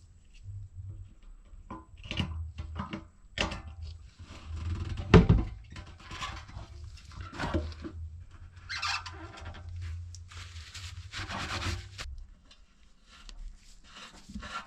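Small parts being handled and fitted by hand on a workbench: scattered clicks, knocks and short scrapes, with one loud knock about five seconds in, over a low hum that stops about twelve seconds in.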